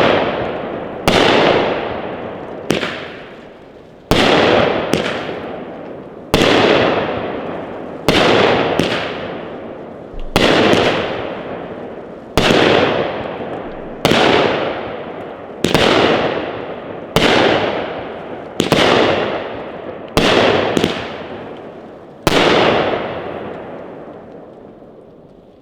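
A 200-gram, 14-shot firework cake firing its shots one after another: a sharp bang about every two seconds, some doubled, each trailing off in a long fading hiss and rumble. The last shot fades out near the end.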